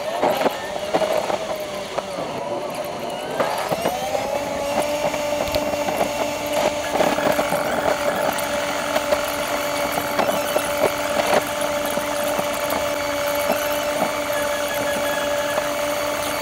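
Car cabin engine and road noise from a dashcam, sped up twenty times, so the engine sounds like a steady high whine like a drill. It rises in pitch about four seconds in as the car speeds up onto the highway, then holds level, with many quick clicks and knocks throughout.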